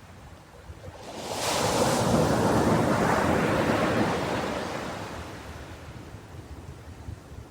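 Ocean wave breaking on a beach: the surf swells about a second in, crashes with a hiss, then slowly washes back and fades.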